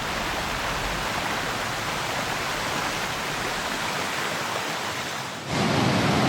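Rushing stream water, a steady hiss; it gets louder and fuller about five and a half seconds in.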